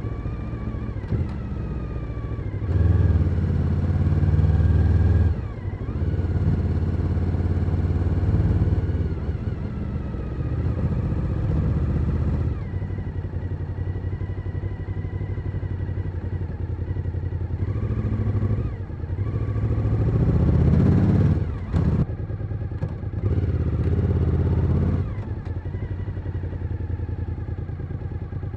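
Suzuki SV1000N's 90-degree V-twin engine on the move, the throttle opened in several pulls of a few seconds each, easing off in between. There is a sharp knock about two-thirds of the way through.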